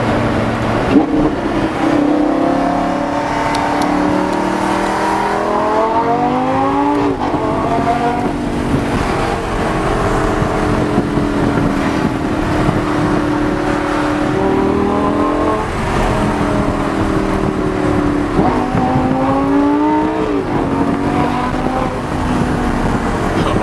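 Lamborghini LP570-4 Superleggera's V10 engine under hard acceleration, heard from inside the car. The engine note climbs steadily in pitch, then drops sharply at each gear change, several times over.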